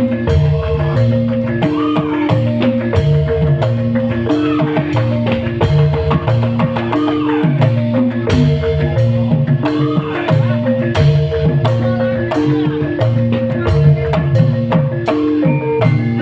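Live band music played on stage: a melody of held notes over a heavy bass line and steady drum strokes.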